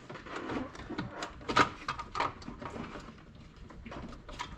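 Scattered light clicks and knocks of parts being handled, with a sharper knock about a second and a half in.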